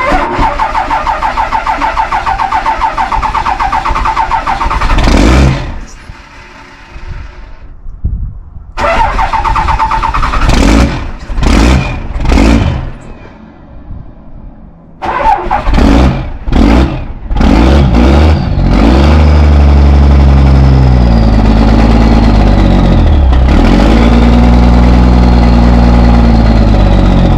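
Old Dodge Cummins diesel engine cold starting: the starter cranks it in several long tries with short bursts of firing in between, until it catches about two-thirds of the way through. It then runs steadily, its speed dipping and picking up again twice.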